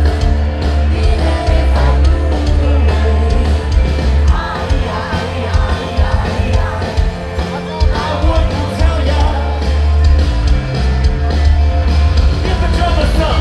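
Live rock band performing loudly: heavy bass and drums with guitar, and a lead singer's voice coming through in the middle stretch.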